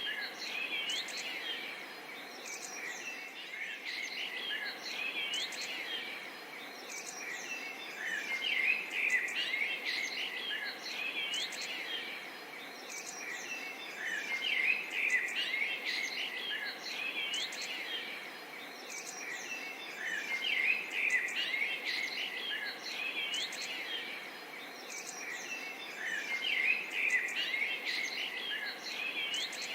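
Forest birds chirping and calling in a busy chorus over a steady background of insects. The bird calls swell and ease in waves about every six seconds.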